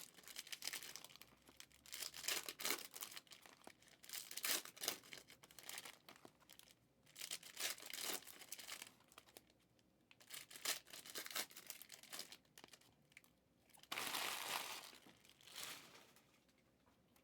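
Plastic trading-card pack wrappers being torn open and crinkled, in irregular bursts, with a longer, louder bout of crinkling about fourteen seconds in.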